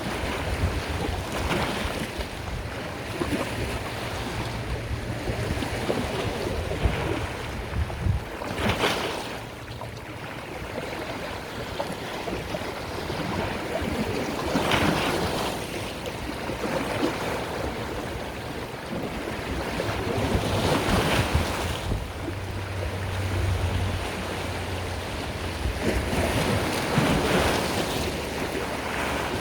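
Sea waves washing in over a steady hiss of surf, swelling and falling back about every six seconds, five surges in all.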